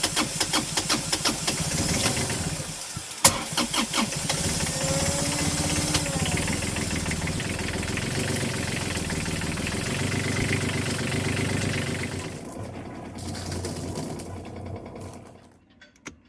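Boat's inboard diesel engine cranking on the starter with a quick, even beat, pausing briefly about three seconds in, then catching and running steadily. It falls away and stops near the end.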